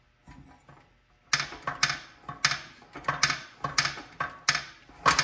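Small single-cylinder mini-bike engine turned over forward by hand, with sharp metallic clicks and clinks about twice a second from a second or so in. It is an unexplained internal noise: loose metal pieces are rattling inside the crankcase around a broken crankshaft.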